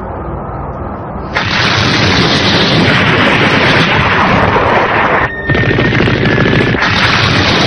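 Cartoon battle sound effects: a low rumble, then from about a second and a half in a dense, continuous barrage of explosions that drops out briefly a little after five seconds.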